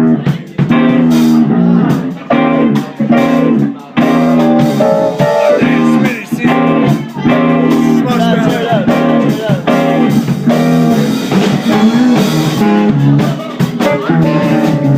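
Live band music: guitar and drums playing a bluesy groove, with a voice singing over it in the second half.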